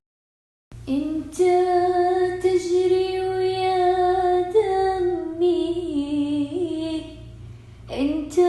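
A woman singing a single voice line without words, holding long notes that step downward in pitch. It starts after a brief dead silence and pauses about seven seconds in before a new note begins.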